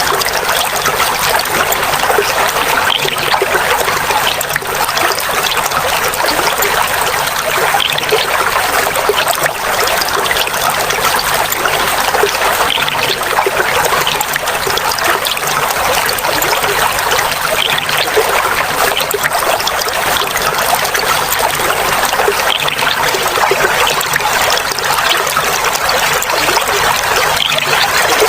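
Clear flowing water trickling and babbling steadily, a continuous run of small splashes.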